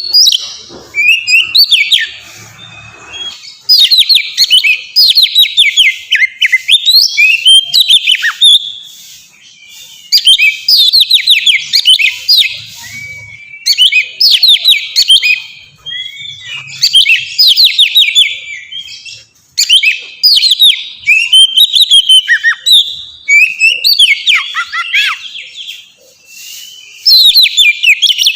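Oriental magpie-robin (kacer) singing loose, full song: loud phrases of rapid, steeply falling notes, each phrase a second or two long and repeated after short pauses.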